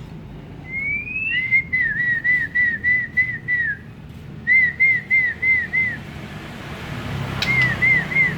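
A person whistling: one rising note about a second in, then three runs of short, identical up-and-down notes, about three a second, with a single sharp click near the end.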